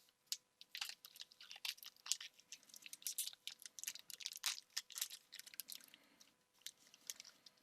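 Foil booster-pack wrappers crinkling and cards being handled: a faint, irregular run of short crackles and rustles.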